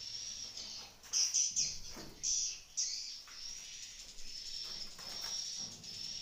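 Swiftlets chirping: a high, thin trill repeats in short, evenly spaced phrases, with a few louder chirps about a second in and again around two to three seconds in.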